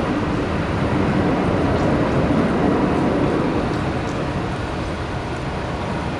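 Jet engines of a departing Airbus A321neo, a steady rumbling roar that swells a little two to three seconds in and then eases slightly.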